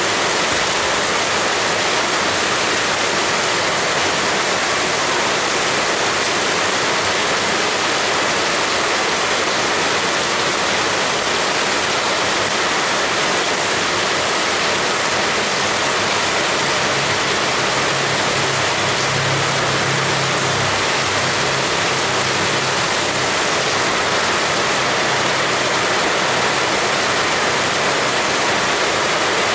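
Heavy rain pouring down steadily, an even dense hiss of water. A faint low hum sounds under it for a few seconds in the middle.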